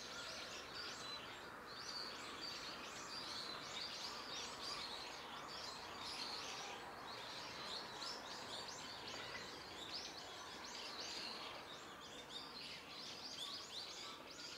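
Many small birds chirping at once, a dense, continuous stream of short, high chirps over a faint outdoor hiss.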